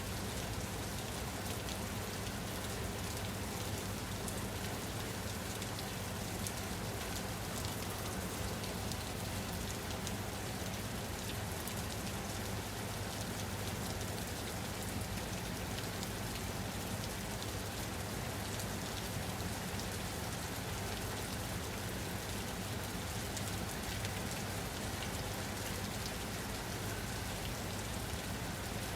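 Steady rain falling, a constant even hiss with many fine drop patters and a low rumble underneath.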